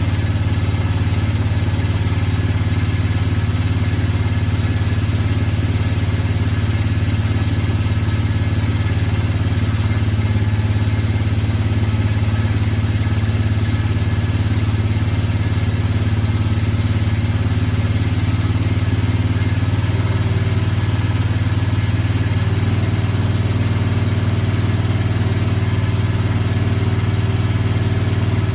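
A vehicle's engine idling steadily while warming up after a cold start, its note changing slightly about two-thirds of the way through.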